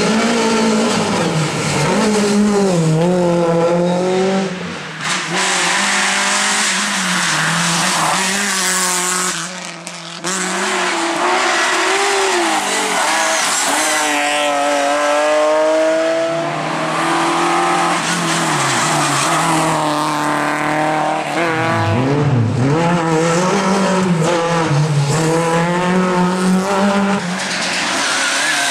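Rally cars at full attack, engines revving hard and rising and falling through gear changes, with tyre squeal and skidding. The sound breaks twice, about five and ten seconds in, as a different car takes over.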